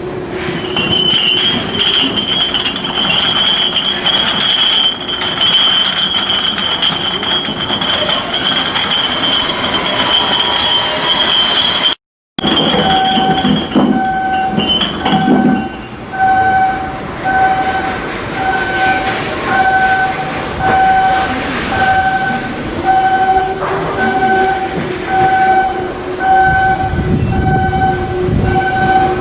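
A steady high-pitched machine whine over working noise. After an abrupt cut, an electronic warning beep repeats about once a second over low machinery rumble.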